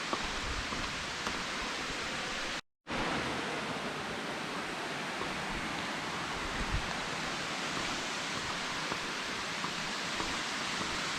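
Haew Narok waterfall's steady rush of falling water, with a brief total dropout about two and a half seconds in.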